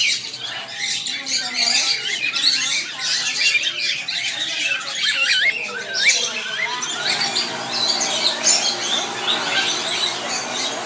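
Many caged birds squawking and chirping over one another in a continuous chorus of short high calls, with indistinct voices murmuring underneath for the first half.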